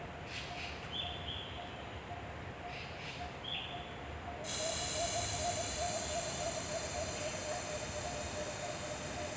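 Natural outdoor ambience: a steady low warbling call runs throughout, with short high chirping bird calls in the first few seconds. About halfway, a high steady insect drone sets in and carries on.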